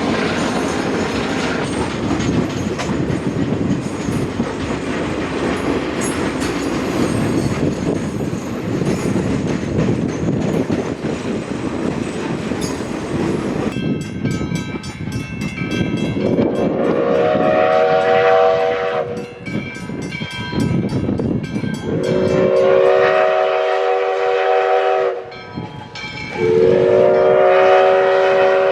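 A railroad train rolls past with steady wheel and rail noise. About halfway a rapid grade-crossing bell starts ringing. A multi-chime train horn then sounds three long blasts.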